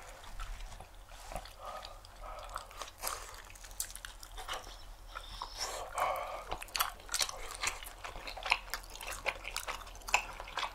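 Close-miked chewing and lip-smacking of soft, chewy rice cake (jeolpyeon) stuffed with a sweet hotteok filling with peanuts, heard as many short wet clicks and smacks.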